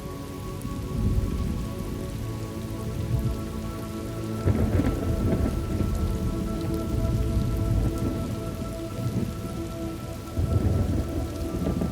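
Steady rain with thunder rumbling, swelling about a second in, again around four and a half seconds, and near the end.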